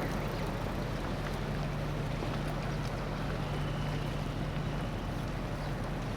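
A ferry under way: a steady, low engine drone under a constant rush of water and wind.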